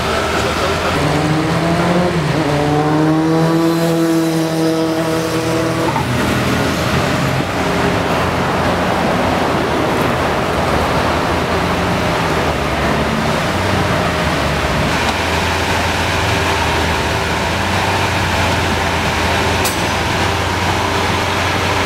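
Lamborghini supercar engines running loud and steady. One engine revs up and eases back a few seconds in.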